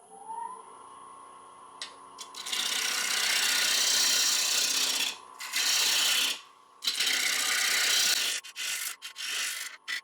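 Wood lathe motor spinning up to a steady whine at about 750 RPM, then a 3/8-inch bowl gouge cutting into a soaking-wet mulberry blank in several loud passes: one long cut of about three seconds, then shorter ones, with quick brief cuts near the end as bark is taken off.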